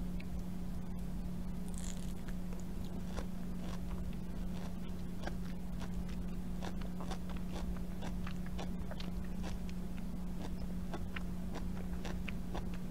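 Close-miked biting and chewing of firm pre-cut mango slices: many small wet clicks and soft crunches from the mouth. A steady low hum sits underneath.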